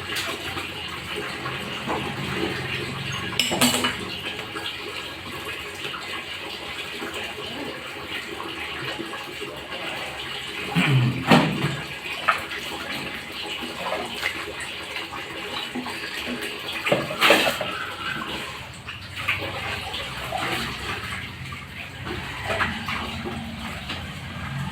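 Water running and splashing steadily, with a few sharp knocks, the loudest about eleven seconds in.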